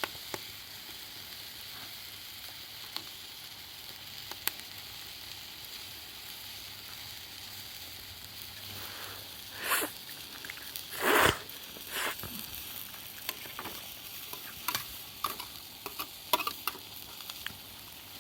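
Campfire burning in light rain: a steady hiss with scattered sharp pops and crackles, and a few louder noises near the middle.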